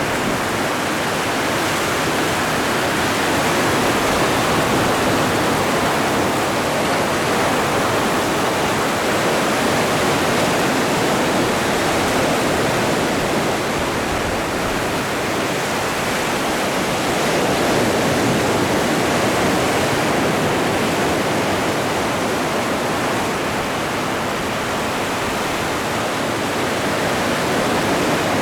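Atlantic Ocean surf breaking and washing on the shore, a continuous rushing wash that swells and eases gently every several seconds.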